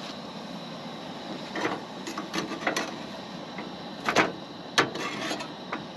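Bread dough frying in oil in a pan: a steady sizzle with scattered sharp pops and clicks, the loudest about four seconds in.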